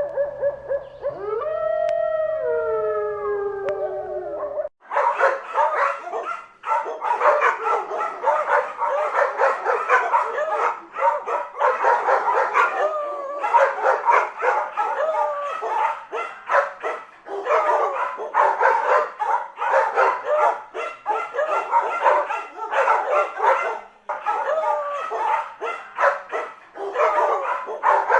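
A canine howl that rises and falls in pitch for about the first four and a half seconds. It cuts off suddenly and gives way to several canines barking and yipping together in a rapid, overlapping chorus.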